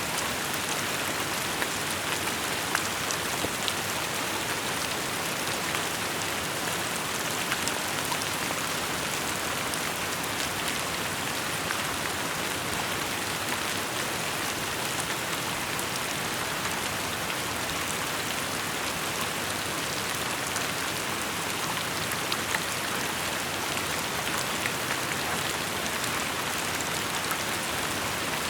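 Steady rainfall: an even hiss of rain with many small drops ticking sharply on a surface.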